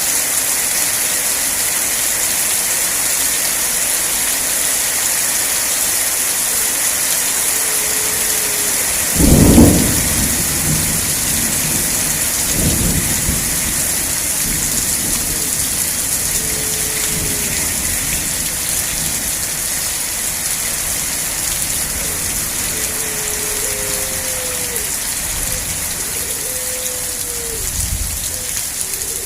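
Steady rain falling, with a loud low rumble of thunder about nine seconds in and fainter rumbles later. Short falling tones sound now and then over the rain.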